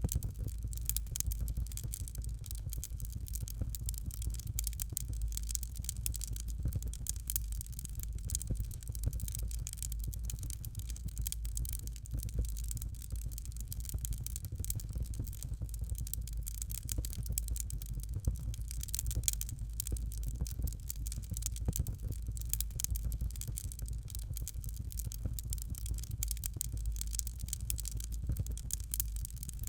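Fire crackling steadily, with constant small high pops and snaps over a low rumble of flame.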